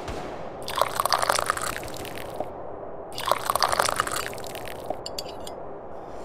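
Tea being sipped and slurped from a cup twice, each slurp lasting about a second, followed by a short faint clicking a little before the end.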